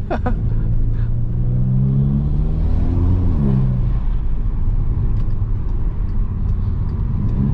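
Volkswagen Jetta 2.0 TSI's turbocharged four-cylinder engine, breathing through a full straight-through exhaust with downpipe, pulling up in revs for about two seconds, then dropping off sharply and settling to a steady low drone.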